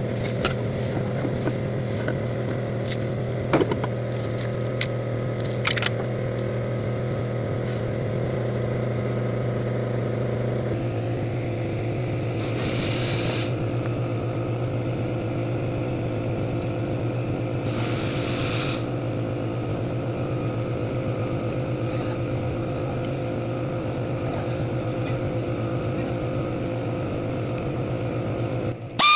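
Chevrolet Lumina engine idling steadily, with a few light clicks in the first several seconds and two brief hissing swells about halfway through.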